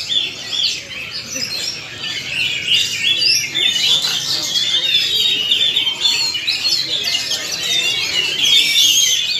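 Many caged oriental magpie-robins singing at once at a songbird contest: a dense, unbroken tangle of overlapping chirps, whistles and trills, over the low din of the crowd.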